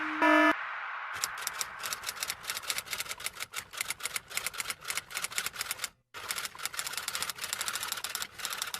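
Typewriter keys clacking in a fast, uneven run, with a short pause about six seconds in. Just before the typing, a repeating electronic beep sounds its last note and stops about half a second in.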